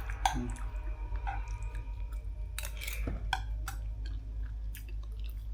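Refrigerator running with a steady low hum, louder than usual because its door was left open for ten to fifteen minutes, with scattered clicks and taps over it.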